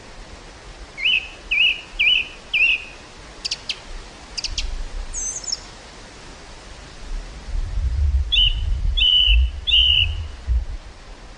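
A songbird chirping in short repeated notes, first four in quick succession, then a few sharp high calls, then three more chirps. Through the second half, gusts of wind rumble low over a field.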